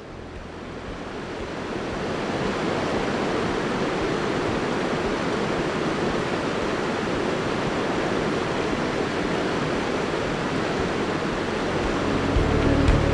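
River water rushing steadily, fading in over the first two seconds. Music comes back in near the end.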